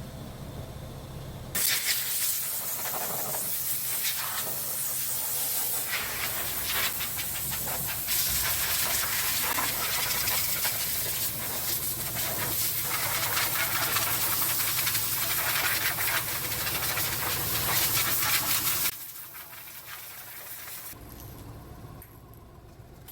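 Loud, steady hissing that starts about a second and a half in and cuts off suddenly near the end, over a low steady hum.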